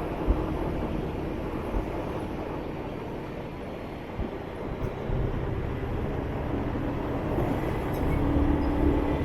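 Motorbike riding through city traffic: a steady rush of road and wind noise with a low engine hum that grows louder over the last few seconds.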